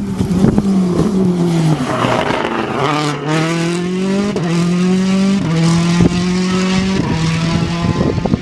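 Rally car engine accelerating hard through the gears: its pitch dips about two seconds in, then climbs in short rising runs, each cut by a quick gearshift, with a few sharp exhaust pops near the end.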